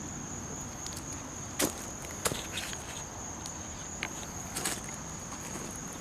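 Insects trilling in one steady high note, with a few sharp crunches of footsteps on gravel track ballast. The loudest crunches come about one and a half and two and a quarter seconds in.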